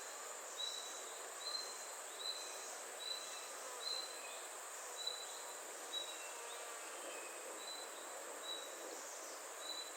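Outdoor nature ambience: a short, high chirp repeating about once every 0.8 seconds over a steady, high insect hiss.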